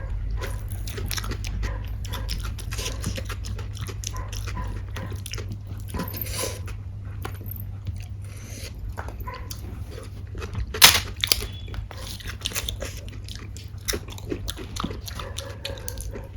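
A person eating close to the microphone: irregular chewing, biting and wet mouth smacks, with one louder sharp sound about eleven seconds in, over a steady low hum.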